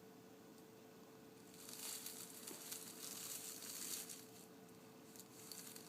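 Soft rustling and crinkling for about two seconds, starting near two seconds in and fading again, over a faint steady hum.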